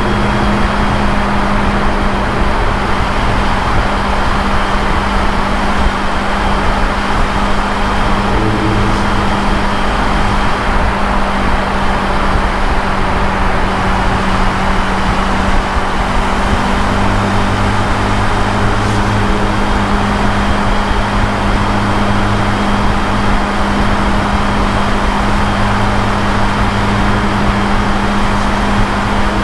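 Motorcycle engine running steadily at highway cruising speed, with loud wind rush over the rider's microphone.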